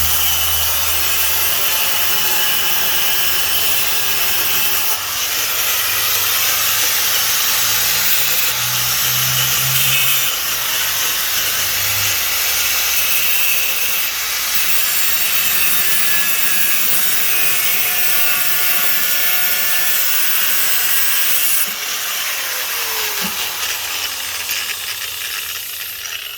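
A 4½-inch angle grinder with a cut-off disc cutting metal, its whine rising and falling under load, as part of cutting the body for tire clearance. The grinder is released about three-quarters of the way through and winds down to a stop near the end.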